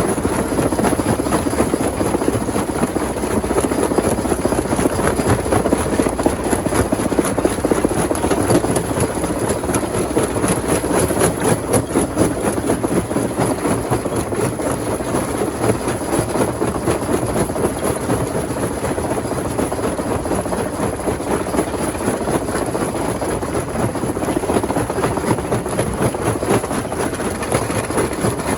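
Rock crusher machine running under load, a steady heavy mechanical noise full of rapid small cracks and clatter as stone is broken.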